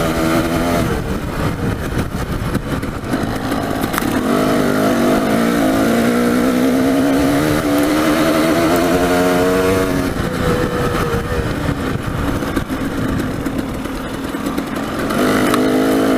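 Dirt bike engine revving up and down again and again as it is ridden along a twisty trail, easing off briefly near the end and then picking up again.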